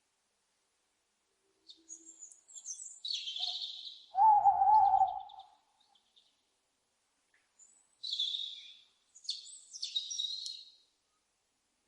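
Owls calling: several raspy, high screeches, and one louder, lower wavering hoot about four seconds in, with short silent gaps between calls.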